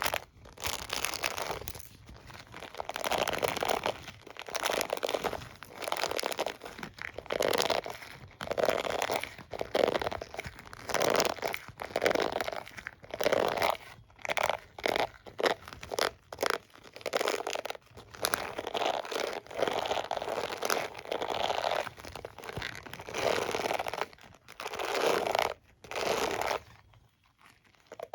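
Hairbrush and comb handled close to the microphone: bristles and teeth scratched and rubbed in repeated scratchy strokes, roughly one a second, with a brief pause near the end.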